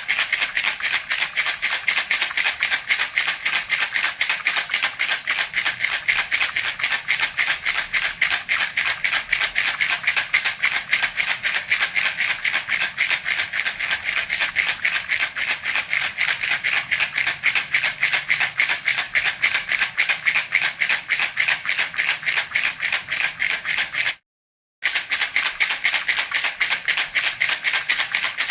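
Baby's rattle (jhunjhuna) shaken rapidly and evenly, about five shakes a second. The rattling breaks off for a split second about four seconds before the end.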